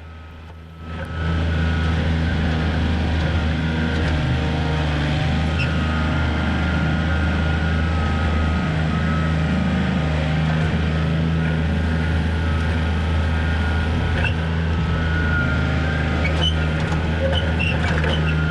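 John Deere 955 compact tractor's three-cylinder diesel engine running steadily while it works, with a steady high whine above the engine note. It comes in loudly about a second in.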